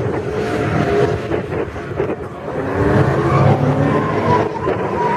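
Drift car engines running and revving hard, the pitch climbing from about three seconds in.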